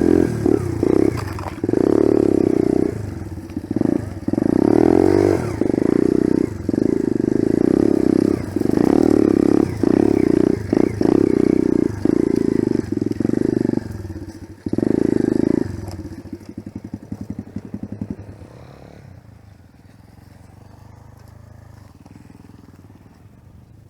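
Enduro motorcycle engine ridden hard, the throttle opened and shut again and again in loud pulls with short drops between. About sixteen seconds in it falls back to a fast, even idle, and after that it goes much quieter.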